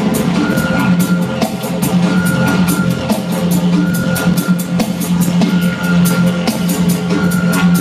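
Live rock music: a drum kit beating fast, regular strikes with guitar, over a steady low drone.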